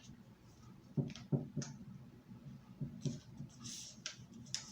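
A sheet of paper being folded in half lengthwise and creased by hand: a few short rustles and crinkles of the paper.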